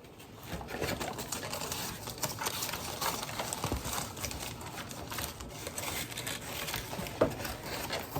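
Takeout food containers being handled and opened: a continuous run of small plastic clicks, crackles and rustles.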